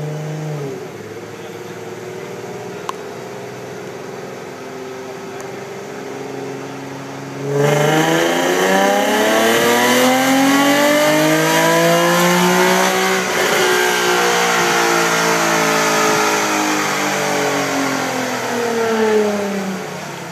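2009 Infiniti FX35's 3.5-litre V6, breathing through an aftermarket ARK exhaust, running on a chassis dyno: a steady light-throttle note for about seven seconds, then a sudden full-throttle pull with the pitch rising steadily for about six seconds. It then lets off and the pitch winds down slowly over the last several seconds as the rollers coast down.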